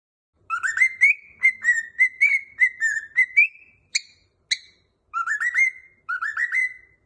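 Cockatiel whistling a song: a quick run of about ten short rising notes, two separate notes a little past the middle, then two fast rising phrases of four notes each near the end.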